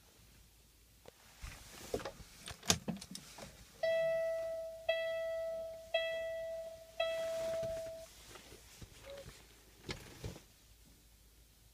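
Electronic chime in a truck cab sounding four times at one pitch, about a second apart, each tone starting sharply and fading away. A few clicks and knocks come before it, and another click near the end.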